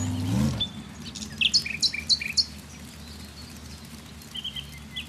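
Small birds chirping: short, high chirps in a few quick clusters, over a faint steady low hum.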